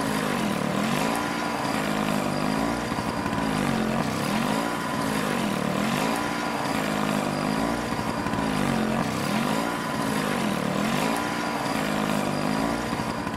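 An engine running, its pitch swinging up and down in a regular wave about every two seconds, starting and stopping abruptly.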